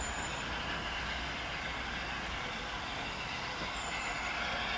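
Steady rumble and hiss of an approaching A1 Pacific steam locomotive, with two brief high-pitched squeaks.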